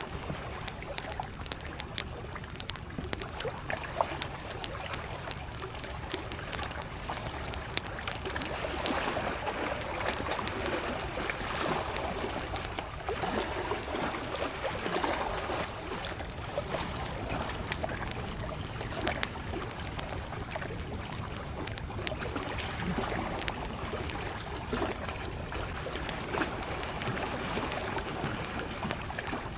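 Small lake waves lapping and trickling at the shore, with a wood campfire crackling: frequent sharp pops scattered over the steady wash of water.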